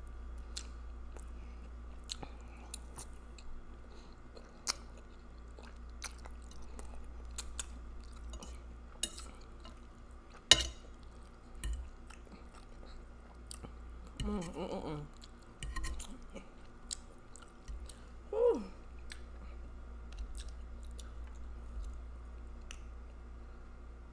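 Close-miked chewing of a mouthful of spaghetti with meat sauce: wet mouth sounds with many sharp smacking clicks, one louder click about ten seconds in. Two short hummed sounds come around the middle, over a steady low hum.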